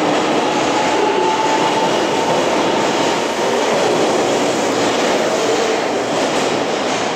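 Train running on the track right beside the platform: a loud, steady rush of wheel and rail noise, with a faint high whine in the first two seconds.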